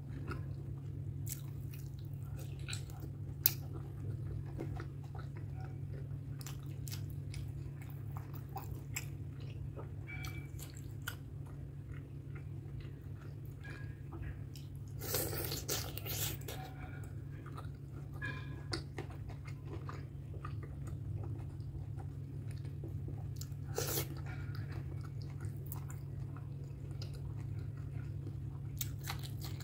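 Close-up ASMR chewing and wet mouth sounds of someone eating pork curry with rice: soft pieces of pork skin being bitten and chewed, with scattered smacks and clicks. There are louder bursts of biting about halfway through, again around three quarters in and near the end, over a steady low hum.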